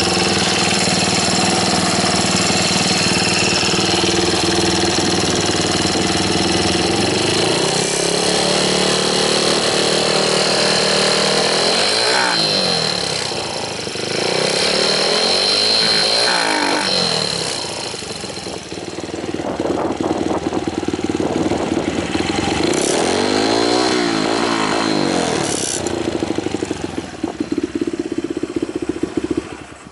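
Kawasaki KSR110 single-cylinder four-stroke motorcycle engine, bored up and breathing through an aftermarket OVER muffler, idling, then given several throttle blips that rise and fall in pitch. It stops near the end.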